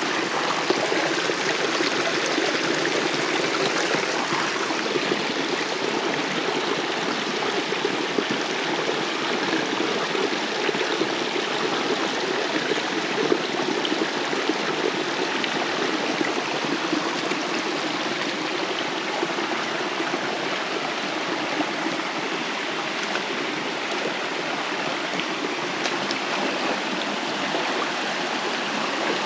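Mountain river in a gorge flowing steadily: a continuous, even rush of water.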